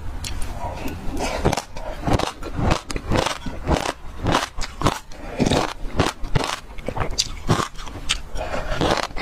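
Close-up chewing of passion fruit seeds: a quick, irregular run of crisp crunches and cracks, with a plastic spoon now and then scraping against a glass mug.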